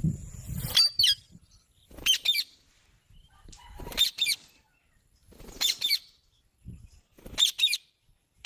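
Pet green parakeet giving short, shrill screeching calls in repeated bursts, mostly quick doubles, about every one and a half to two seconds.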